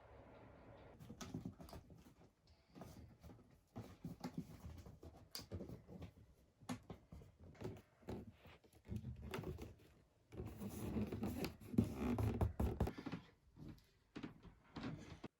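Irregular rustling, scraping and light knocks, as of things being handled and moved about in a small room, cutting off suddenly near the end.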